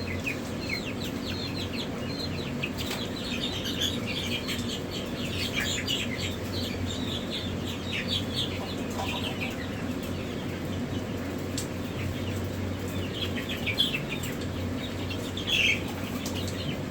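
Many chicks peeping with short, high chirps over a steady low hum.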